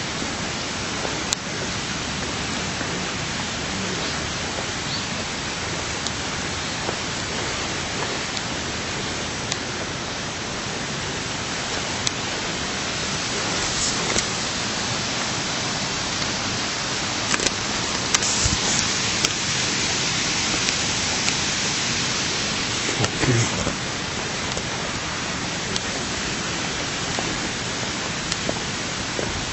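Steady rushing water of a stream or waterfall, an even hiss with no pauses.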